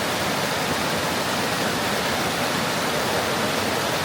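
Rushing water of a rocky mountain stream, a steady, unbroken noise.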